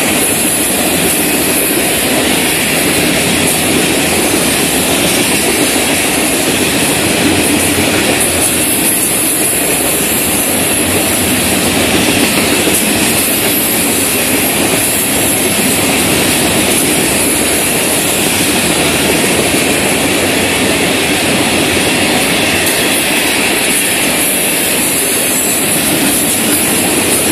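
A freight train's open-top hopper cars rolling steadily past at trackside. Steel wheels run on the rails in a loud, continuous noise with no change through the whole stretch.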